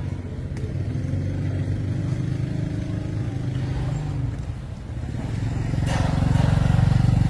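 A small engine running and picking up speed, its level rising over the first second. It eases off about four and a half seconds in, then speeds up again to its loudest near the end.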